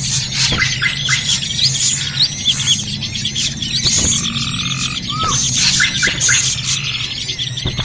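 Bird-luring recording of many small birds calling at once, a dense, busy chorus of short chirps, trills and quick upslurred whistles over a steady low hum.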